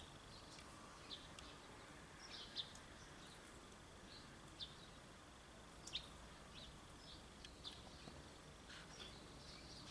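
Faint, scattered short bird chirps and calls, a dozen or so spread irregularly, over a faint steady high whine.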